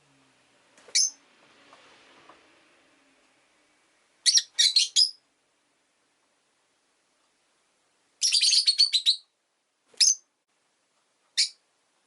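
Rosy-faced lovebird giving sharp, high-pitched chirps in short groups: a single call, then three in quick succession, a rapid run of about eight, and two more single chirps, with silent gaps between.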